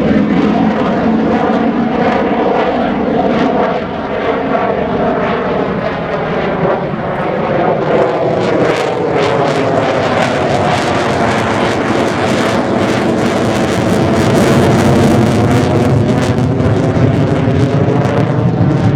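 Jet noise of a Mitsubishi F-2B fighter's single F110 turbofan engine as it flies a display pass: loud and continuous, its tone sweeping up and down as the aircraft moves past.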